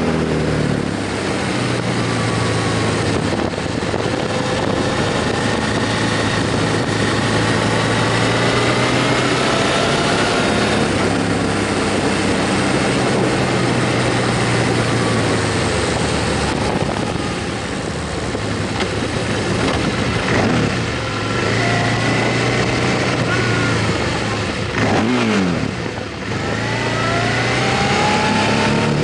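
Motorcycle engine running on the road under steady wind noise, its pitch rising and falling with the throttle, with a falling sweep about three-quarters of the way through.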